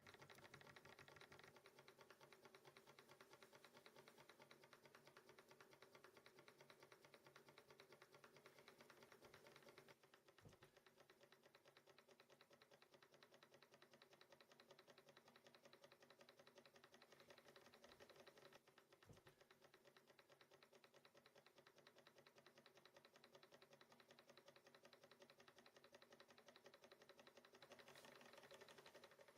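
Small UMS SE03 horizontal Stirling engine model running: a faint, fast, even ticking clatter from its moving parts.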